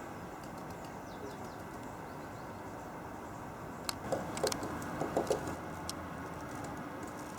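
Great spotted woodpecker pecking: a short cluster of sharp taps about four seconds in, over steady background traffic noise.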